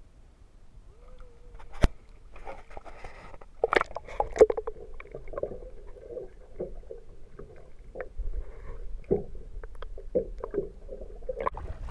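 Water splashing and sloshing at the side of a small fishing boat, as when a fish is let go, with irregular sharp knocks against the boat, the loudest about two seconds in.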